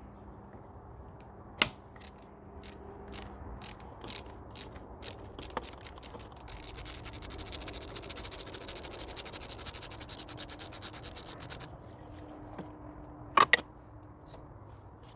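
A socket ratchet clicking as a spark plug is undone on a Mercedes M112 V6: scattered single clicks at first, then about five seconds of fast, even ratchet clicking. A sharp double knock of metal tools comes near the end.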